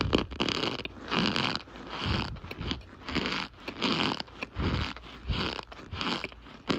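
Chunks of compacted cornstarch being squeezed and crushed, giving a repeated squeaky crunch about twice a second.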